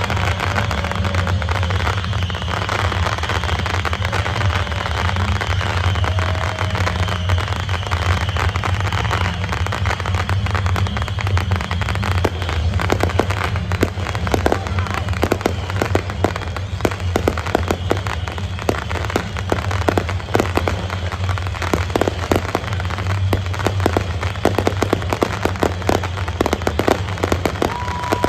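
Fireworks display: a steady run of pops and crackling over a low rumble, growing into dense rapid crackling from about halfway through.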